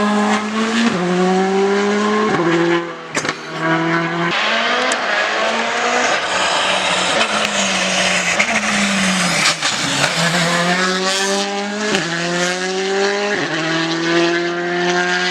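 Rally car engine at full throttle, climbing through the gears with the pitch dropping at each upshift. Near the middle the pitch falls as it slows for a corner, then it accelerates hard again through several more upshifts.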